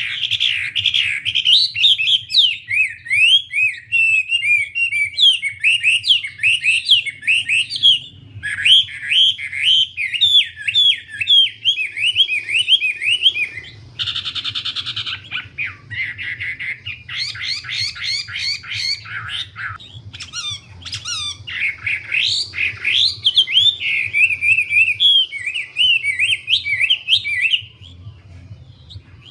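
A wambie songbird singing vigorously in fast, continuous chattering phrases of quick rising and falling notes, with a brief pause near the end. A faint steady low hum runs underneath.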